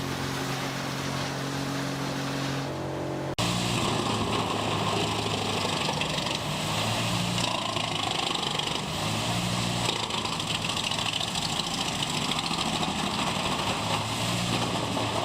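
Wood chipper running. A steady engine drone for about three seconds, then a sudden change to a louder chipper sound: an engine note that shifts up and down in steps under a noisy rush.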